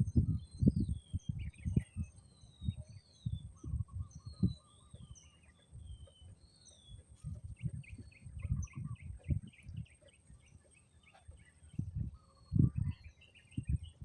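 Several birds calling outdoors: short whistled, slurred notes and, in the middle, a fast run of chirps. Wind buffets the microphone in irregular low rumbling gusts, which are the loudest part.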